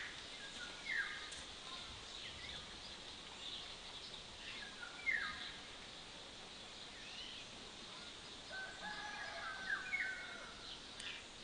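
Wild birds calling in short, separate chirps a few seconds apart, the busiest stretch of calls near the end, over a faint steady outdoor hiss.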